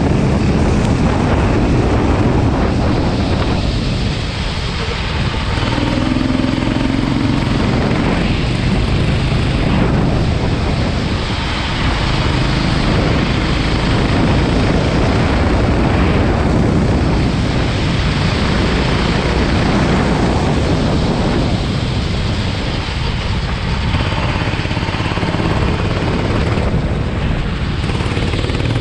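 Go-kart engine running hard, its revs easing off briefly several times and then climbing again.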